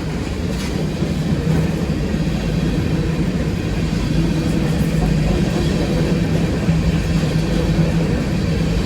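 A train rumbling steadily by at close range, with a low, steady engine drone setting in about a second and a half in.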